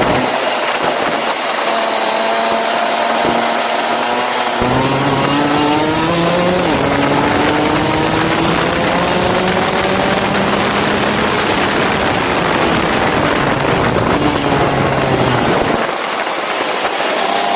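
Go-kart engine running hard, its pitch climbing and dropping again and again as the kart accelerates and slows. About four and a half seconds in it picks up sharply, and near the end it drops back to a lower, steadier note.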